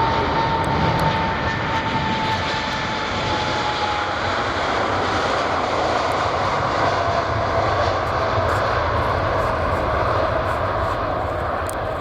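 Boeing 747 jet engines running loud and steady as the airliner passes, with a whine in the engine noise that slowly falls in pitch.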